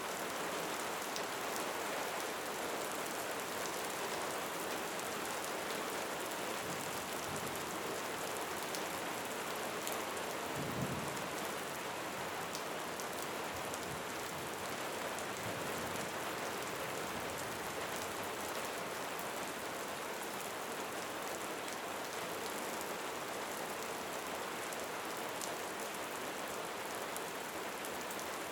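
Steady rain falling, a dense even hiss with scattered drop spatters, and one brief low thump about eleven seconds in.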